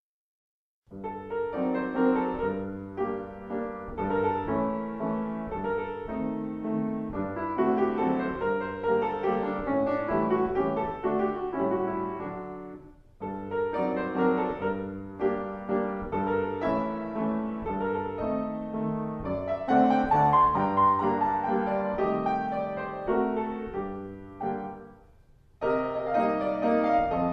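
Solo piano background music. It starts about a second in after a moment of silence, with brief breaks about halfway through and near the end.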